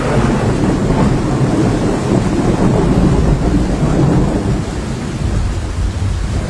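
Thunder rumbling through heavy rain in a thunderstorm, a deep, steady rumble that eases near the end.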